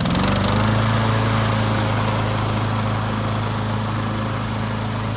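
Honda lawnmower's single-cylinder engine catching right at the start and settling into steady running at an even speed.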